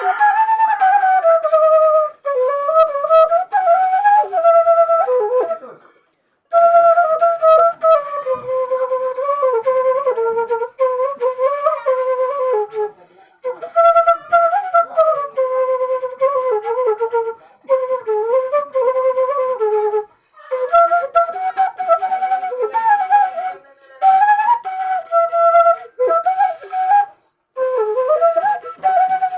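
Seruling, an Indonesian bamboo flute, played solo: a winding, ornamented melody with sliding, wavering notes, in phrases broken by short breath pauses.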